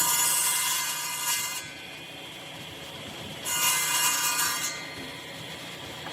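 A power tool cutting wood in two passes, each a little over a second long, with a whine over the cutting noise.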